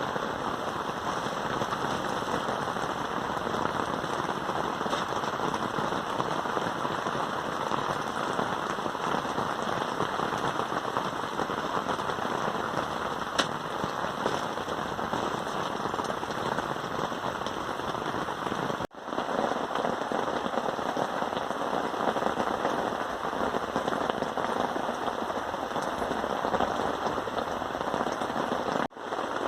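Steady heavy rain falling, a dense pattering hiss. It drops out for an instant twice, about two-thirds of the way in and near the end.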